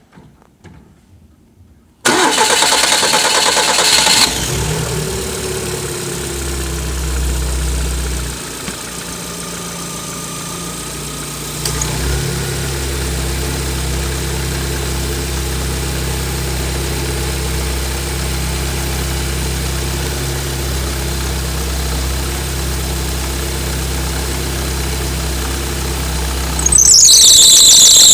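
Lada Kalina 1.6 16-valve engine cranking and starting about two seconds in, with a brief high squeal at start-up, then idling steadily. Near the end a loud high-pitched squeal sets in over the idle: the alternator belt whistling.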